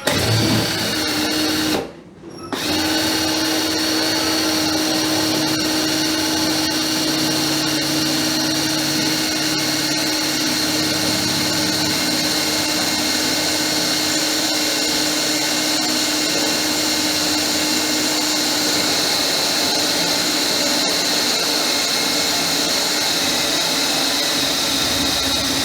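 Electric drill running steadily under load, likely boring through rubber that smokes from the friction. It stops briefly about two seconds in, then runs on continuously, its pitch sagging slightly near the end.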